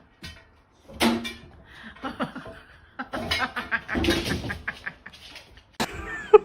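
People laughing in short irregular bursts, with a few sharp clicks near the end.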